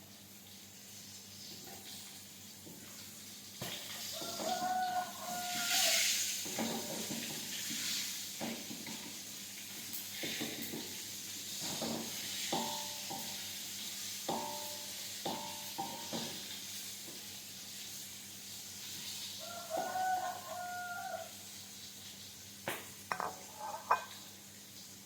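Food sizzling in hot frying oil with a steady hiss. A pitched call sounds twice, about 5 and 20 seconds in, and a few sharp clicks come near the end.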